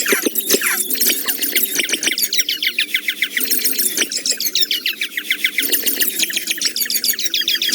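A dense, continuous stream of rapid, high-pitched falling chirps and squeaks, many overlapping at once.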